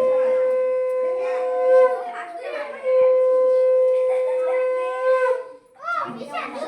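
A horn-like wind instrument blown in two long, steady notes, each about two seconds long, with a shorter wavering note between them. Children's voices come in near the end.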